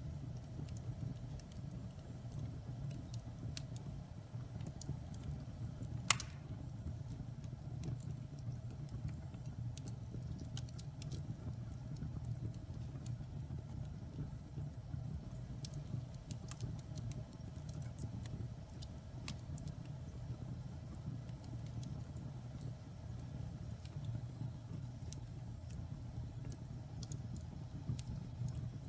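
Wood fire in a fireplace crackling: a steady low rumble of burning logs with scattered small pops and snaps, and one sharper, louder pop about six seconds in.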